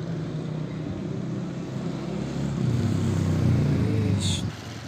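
A motor vehicle's engine running, louder through the second half and dropping off sharply near the end, with a brief high squeak just before the drop.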